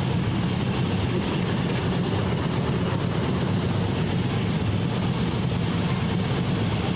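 Harley-Davidson police motorcycles' V-twin engines running together in a steady, loud rumble.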